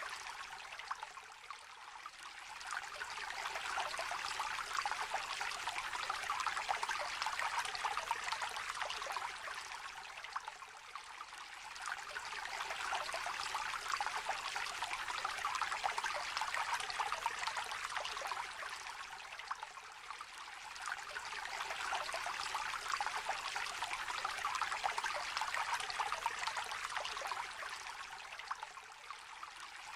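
Small river trickling and babbling steadily, its level easing off and swelling again about every nine seconds.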